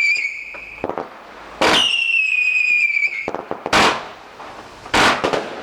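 Firework cake firing whistling shots: a piercing whistle of about a second and a half, sliding slightly down in pitch, then two sharp bangs of bursting shots about a second apart near the end.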